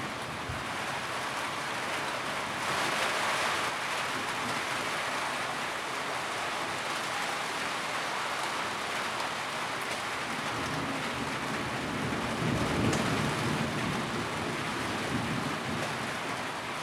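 Steady rain drumming on a tin roof, a dense, even patter that grows heavier for a moment about three seconds in. A low rumble swells in the second half and then fades.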